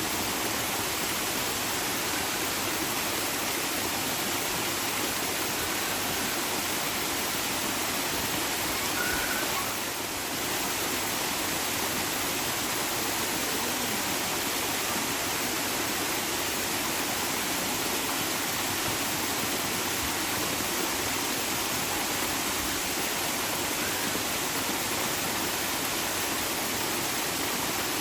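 Running water rushing steadily, like a stream or small waterfall, as an even, unbroken wash of noise. It dips briefly in level about ten seconds in.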